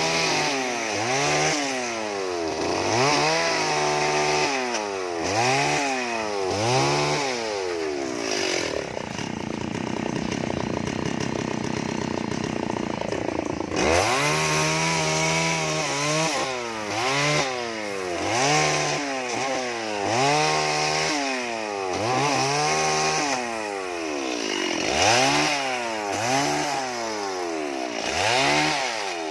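Chainsaw revving up and down over and over, about once a second, with a steadier stretch of several seconds in the middle before the revving resumes.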